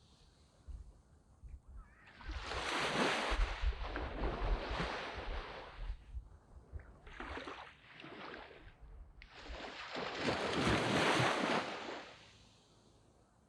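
Waves breaking and washing up a sand beach, in three surges that swell and fade: a long one about two seconds in, a shorter double one around seven to eight seconds, and another long one near ten seconds, with quieter lulls between.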